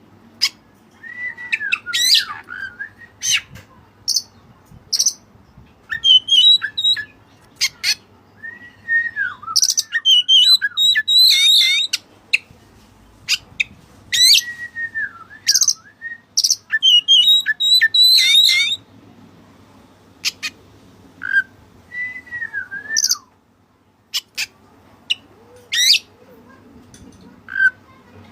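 White-breasted oriental magpie-robin (kacer dada putih) singing in repeated bouts: sharp high chirps and rapid notes mixed with swooping whistles that rise and fall, with short pauses between phrases.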